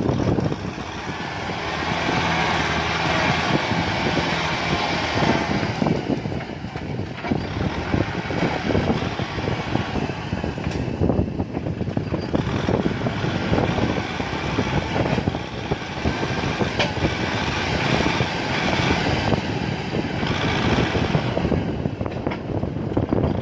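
Kubota M6040 tractor's four-cylinder diesel engine running hard under load, its sound easing and building again several times, with a dense crackling clatter over it.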